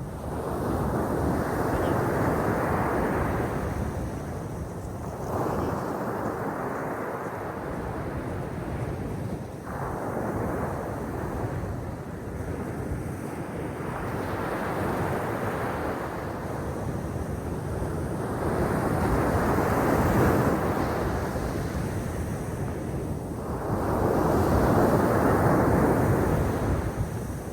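Sea waves breaking and washing on the shore, a steady surf noise that swells and eases in surges every few seconds, loudest near the end.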